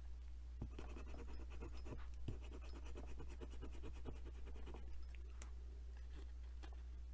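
Paper being rubbed hard with a sturdy tool over a rubber carving block to transfer a pencil drawing: faint, quick scratching that starts about half a second in and dies away about five seconds in, over a low steady hum.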